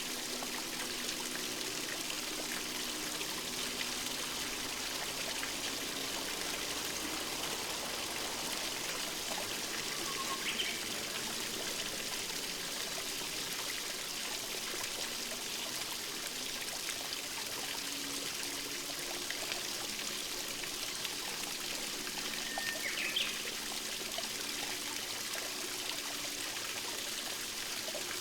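Running water trickling and splashing steadily. A short, rising bird chirp sounds about ten seconds in and another near the end.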